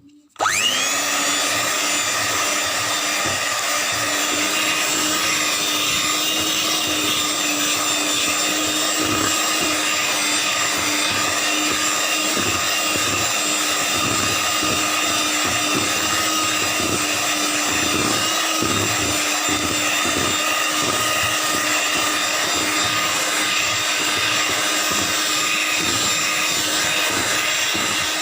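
Electric mixer switched on, spinning up quickly to speed and then running at a steady pitch while it beats cake batter with lemon juice just added.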